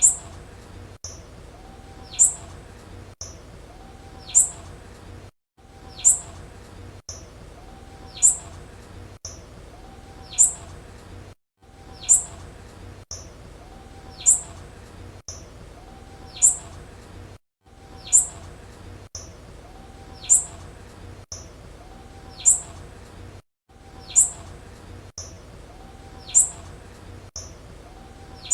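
Female blue-black grassquit (tiziu) call: a short, sharp, high chirp repeated about every two seconds. A faint lower note that rises and falls sounds between the chirps, and the sound drops out briefly every few seconds.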